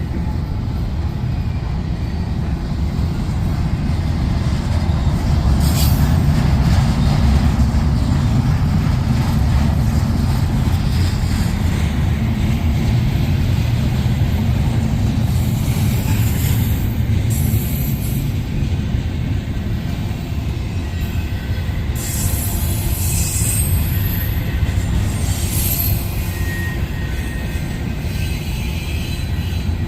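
A train's cars rolling past with a steady low rumble, and high wheel squeal that comes and goes through the second half.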